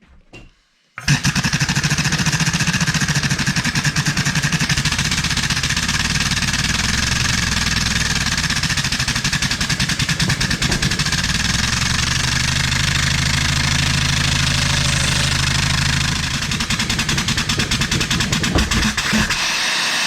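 Old engine converted to run on compressed air at about 100 psi, running fast with a rapid, even clatter and hiss of air, while it is loaded by hand on its socket and gear-reduction pulley as a rough power test. It starts about a second in and shuts off near the end.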